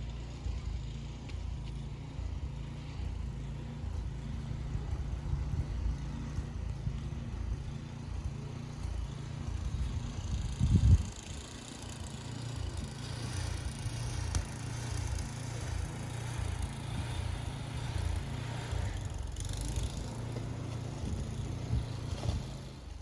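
A vehicle driving: a steady low rumble of road and engine noise, with one louder thump about eleven seconds in.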